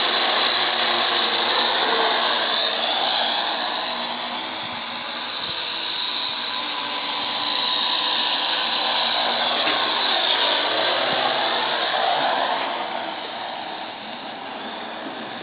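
Radio-controlled model airplane's motor whining overhead, its pitch rising and falling as it passes by, swelling about two seconds in and again around ten seconds, then fading near the end. Heavy wind noise on the microphone runs under it.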